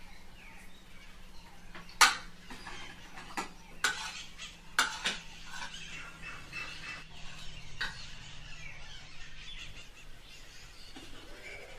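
Tableware clinking during a meal: spoons knocking against plates and a pot, a few sharp separate clinks over a low background, the loudest about two seconds in.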